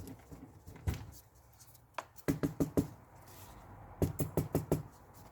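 Light knocks on a hard surface: a couple of single ones, then two quick runs of about five.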